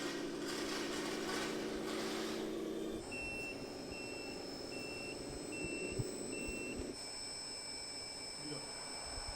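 RC model truck's sound module playing a steady engine hum with hissing bursts. About three seconds in, the engine sound gives way to a reversing alarm: five short, evenly spaced high beeps over a steady high whine.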